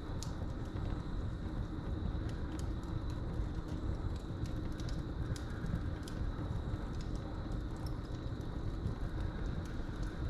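Wood fire burning in a fireplace: a steady low rumble with scattered sharp crackles and pops, while crickets trill steadily in a high, unbroken tone.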